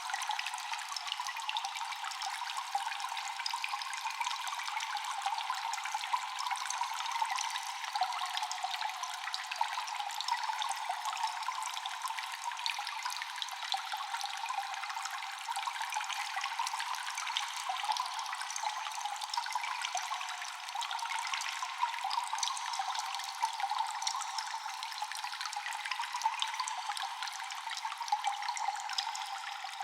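Cave ambience of constant water dripping and trickling, echoing: a steady wash of running water dotted with many small drips, with no deep low end.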